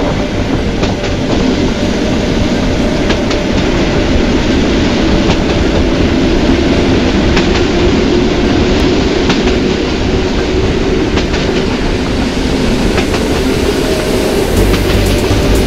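Passenger train running along the track: a steady rumble with a faint hum and irregular clicks of the wheels over rail joints.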